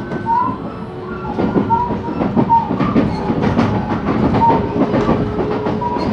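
Running noise of a JR West 223-series electric train heard from inside the motor car: wheels on rail with a quick run of rail-joint clicks, and short high tones now and then.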